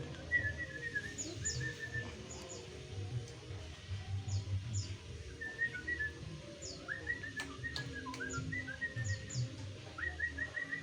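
Sooty-headed bulbul (kutilang) chirping: short runs of quick notes recur every second or two, with thin high notes that fall in pitch in between.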